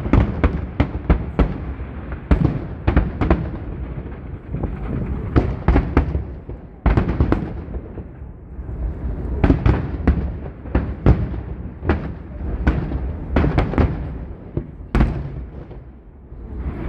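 Aerial fireworks bursting in rapid volleys: many sharp bangs over a continuous low rumble, with short lulls between the volleys.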